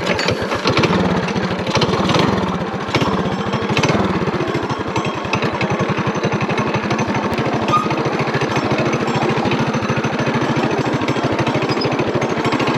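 Mini bike's small single-cylinder four-stroke engine running steadily with a fast, even firing pulse, just after being started. A few knocks come in the first few seconds.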